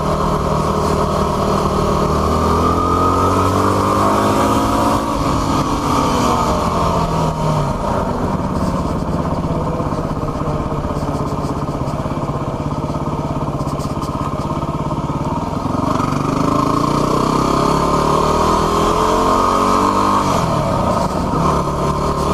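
Yamaha WR250R's 250 cc single-cylinder four-stroke engine running under way. The pitch climbs a few seconds in, drops back, holds steady for a while, then climbs again and falls off near the end as the rider opens and closes the throttle.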